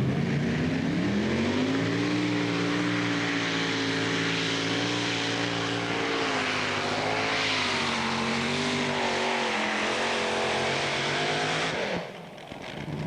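A tractor-pulling machine's engines run at full power under load during a pull. The pitch climbs over the first two seconds, then holds high with a slight waver, and the sound cuts off abruptly near the end.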